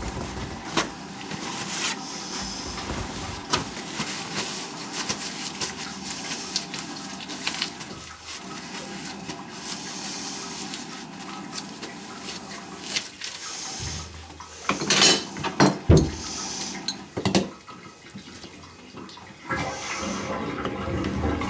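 Water running steadily, with scattered clicks and a few sharp knocks about three-quarters of the way through.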